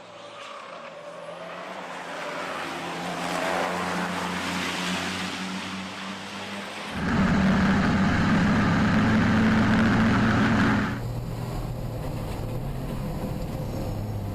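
Racing trucks' diesel engines running at speed on the circuit. The sound swells over the first few seconds, jumps abruptly to a loud steady drone about seven seconds in, and drops back abruptly about eleven seconds in.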